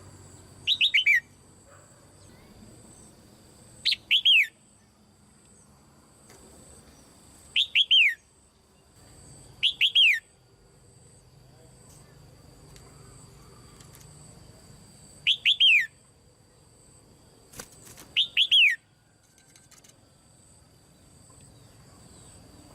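Female red-whiskered bulbul calling in a cage: six short, loud bursts of two or three quick falling whistled notes, a few seconds apart.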